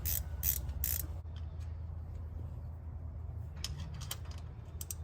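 Sharp metallic clicks from a hand tool tightening a Polylock rocker-arm adjuster on a Ford 351 Windsor valvetrain: three in the first second and a few more near the end, over a steady low hum.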